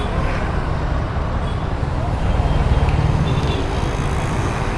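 Busy street ambience: steady traffic noise from passing motor vehicles, with voices in the background.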